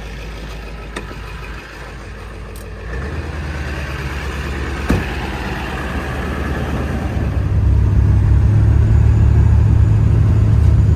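Ford 7.3 Power Stroke turbo-diesel V8 running while warming up from a cold start, its engine speed stepping up about three seconds in and again near eight seconds as high idle is set. A single sharp click about five seconds in.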